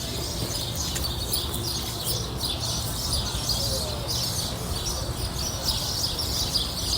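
Many small birds chirping in quick, overlapping calls, over a steady low rumble.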